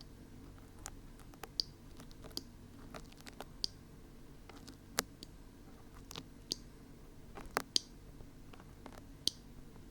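Dried glue being peeled off the ears of a binaural dummy-head microphone: irregular sharp clicks and small crackles, spaced a fraction of a second to a second apart.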